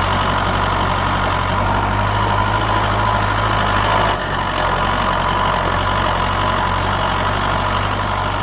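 An engine idling steadily with a low hum; the hum shifts slightly about four seconds in.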